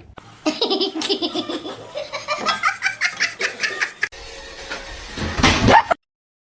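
A person laughing heartily in a quick run of repeated bursts, then a sudden cut to louder mixed sound that stops abruptly near the end.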